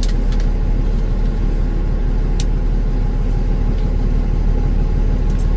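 Kenworth T360 concrete agitator truck heard from inside the cab while driving: a steady low engine drone with road noise, and a few faint clicks.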